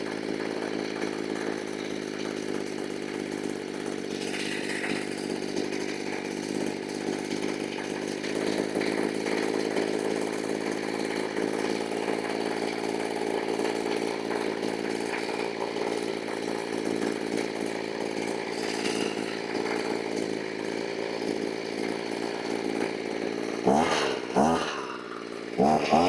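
Stihl BG85 leaf blower's two-stroke engine running steadily, then revved up sharply twice in the last few seconds.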